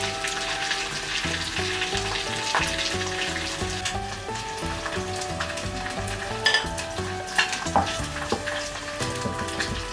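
Food sizzling and frying in a pan while it is stirred, a steady hiss with a few sharp clicks a little past the middle. Soft music plays underneath.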